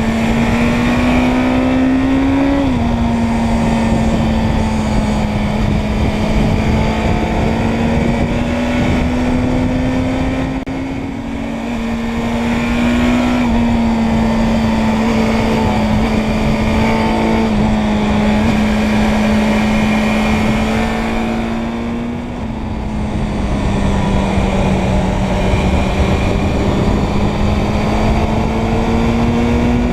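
Suzuki Bandit 600's inline-four engine running under way. Its pitch climbs slowly and then drops abruptly four times, as with upshifts or easing off the throttle, over steady wind and road noise.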